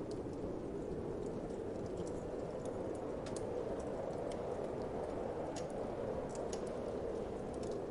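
Wood fire crackling, with small sharp pops at irregular intervals, over a steady low whoosh of wind.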